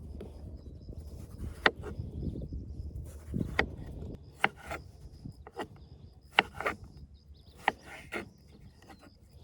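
Irregular sharp knocks and taps, about eight of them, spaced unevenly, over a low rumble that fades about four seconds in, with a faint steady high tone underneath.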